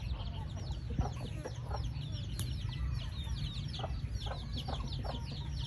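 A brood of poultry chicks peeping without pause: many short, high, falling peeps overlapping, with lower clucking calls now and then. A steady low rumble runs underneath.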